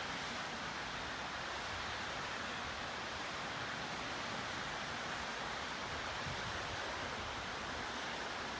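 Steady, even rushing noise with no distinct events, strongest in the upper-middle range.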